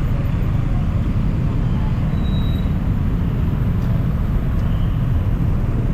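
Steady city traffic noise with a heavy low rumble, heard from a moving bicycle.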